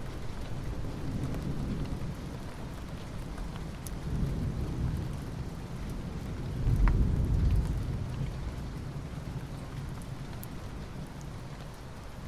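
Rain falling steadily on asphalt, with scattered drop ticks. Under it, low rumbles swell and fade several times; the loudest comes about seven seconds in.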